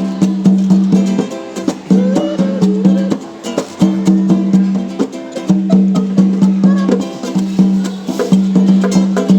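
Berimbau played in an ijexá rhythm: rapid even stick strokes on the wire ringing on one low note, which stops and starts in phrases, with the gourd's wavering wah over it.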